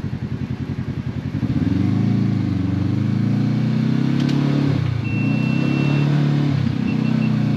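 Side-by-side UTV engine chugging in slow even pulses, then picking up revs about a second and a half in and rising and falling in pitch as the throttle is worked. A sharp clatter comes about four seconds in, and a thin high tone sounds for about a second a little after five seconds.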